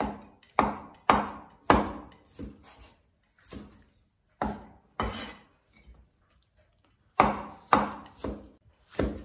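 A kitchen cleaver chopping cooked pig's head meat on a wooden cutting board: sharp single chops about half a second apart, coming in short runs with pauses between them.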